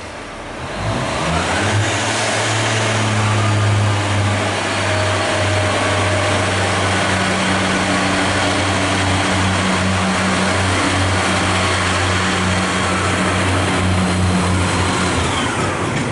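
Class 142 Pacer diesel railbus pulling away under power: its underfloor diesel engine revs up about a second in and holds a steady, heavy note. A thin whine rises about two seconds in and falls away near the end.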